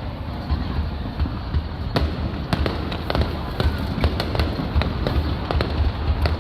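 Aerial fireworks going off: a steady low rumble of booms, joined from about two seconds in by a dense run of sharp crackling pops.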